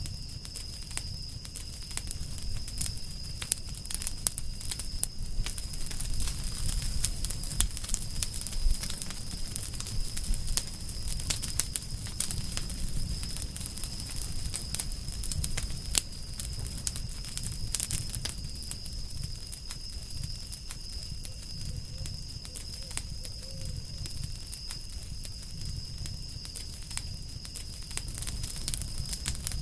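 Wood campfire crackling, with frequent sharp snaps and pops scattered irregularly over a low rumble.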